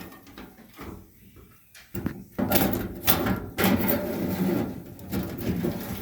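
Dryer lint filter being slid back into its slot in the dryer top: plastic scraping and rattling with several sharp knocks, starting about two seconds in.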